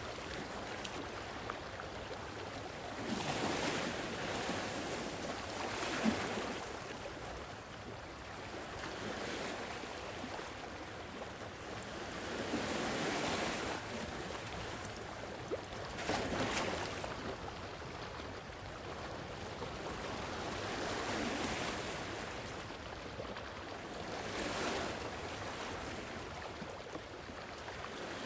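Sea waves breaking and washing on a shore, swelling and falling back every few seconds.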